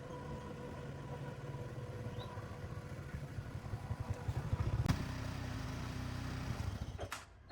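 A vehicle engine running with a low, fast pulse, growing louder until about five seconds in, then holding steady before cutting off abruptly near the end.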